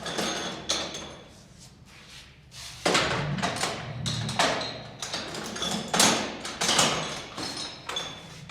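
Steel tools knocking and clanking against sheet metal: about eight separate knocks, spaced irregularly, several with a short metallic ring.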